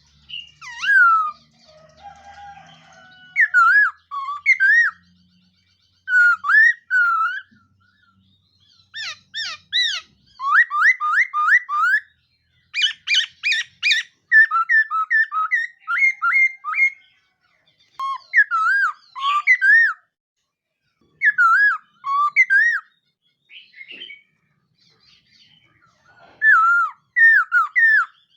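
Khướu mun laughingthrush singing: loud whistled phrases of sliding, looping notes, with runs of quick repeated notes in the middle, broken by short pauses.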